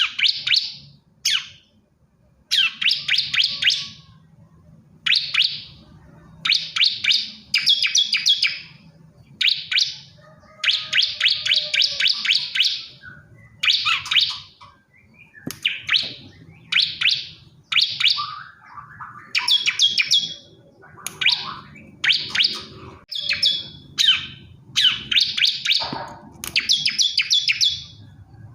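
Male bar-winged prinia (ciblek kristal) singing: repeated short bursts of quick, high, trilled notes, one burst about every second, with brief gaps between them.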